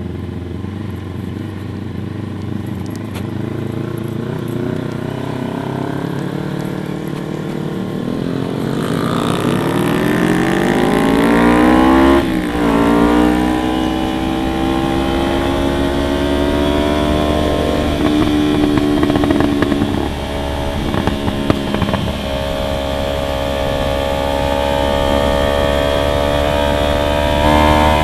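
Motorcycle engine running under way: it holds low revs at first, then revs rise, drop sharply with a gear change about twelve seconds in, and climb again to a steady cruise.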